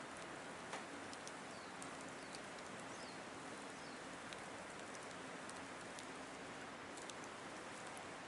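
Wood fire of thick split logs burning: a steady hiss with scattered small crackles and pops.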